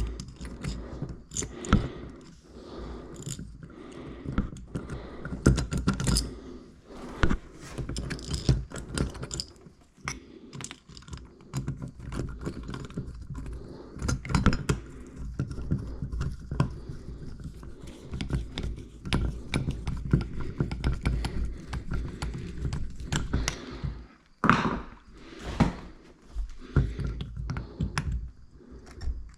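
Irregular clicks and knocks of hard objects being handled, with a denser, louder run of them near the end, as in handling tools and hardware during repair work.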